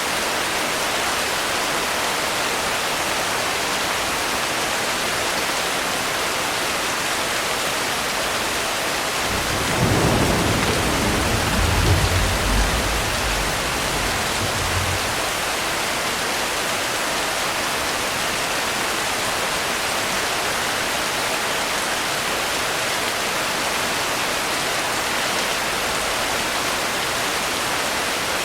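Steady rain falling, with a low rumble of thunder about ten seconds in that swells twice and dies away after about five seconds.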